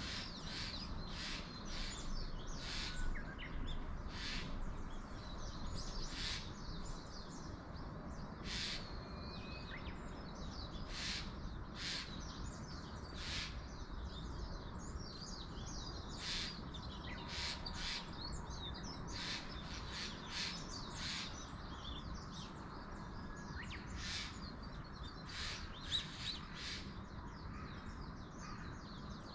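Wild birds calling over and over in short, sharp high calls, over a steady low rumble of wind.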